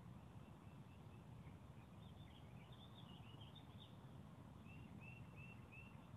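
Near silence with faint bird chirps: a scattered cluster of short calls, then a run of four evenly spaced chirps near the end, over a low background rumble.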